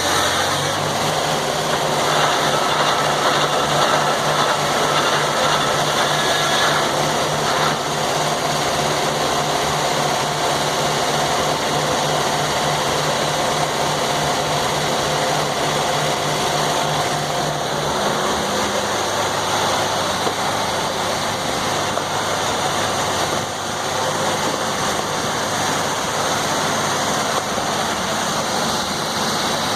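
A sawmill's engine runs steadily. Its tone drops to a lower pitch about eighteen seconds in and holds there.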